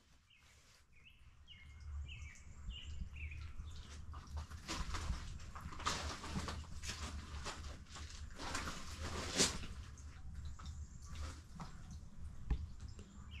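A songbird sings a quick run of short chirps about a second in, and chirps again near the end, over a steady low rumble and scattered soft rustling noises.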